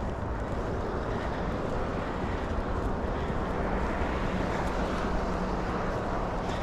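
Steady rumble of road traffic in snow, with a low engine hum and wind noise on the microphone.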